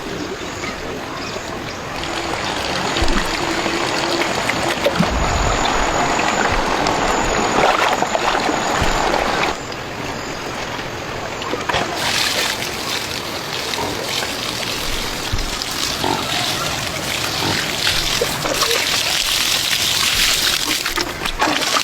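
Water splashing and trickling in a steady wash, which grows hissier about twelve seconds in.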